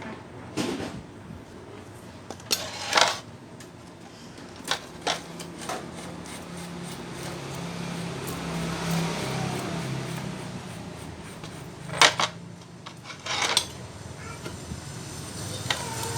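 Scattered sharp metal knocks and clinks of jackhammer parts and hand tools being handled during reassembly, over a steady low hum.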